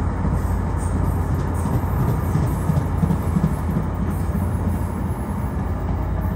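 Tri-Rail commuter train with a diesel locomotive pulling away: a steady low engine rumble under the rolling rail noise of its bilevel coaches.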